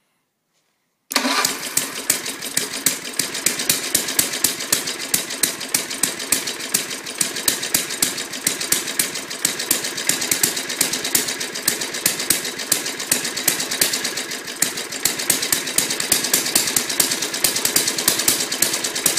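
A small lawnmower engine, long left standing outdoors, comes in abruptly about a second in and runs with a fast, even beat. The owners suspect the carburettor is either getting too much fuel or is still dirty.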